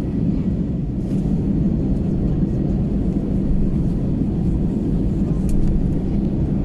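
Steady low rumble of an Airbus A320's engines and airflow, heard from inside the passenger cabin.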